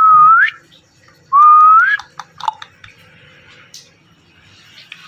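Indian ringneck parrot whistling twice. Each whistle is a clear note of about half a second that holds steady and then rises at the end, the two coming about a second and a half apart. A few light clicks follow.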